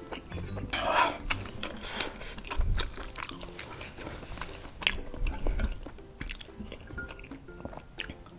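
Close-miked chewing of chewy baso aci (tapioca meatballs with tendon) in spicy broth, with wet mouth clicks and smacks.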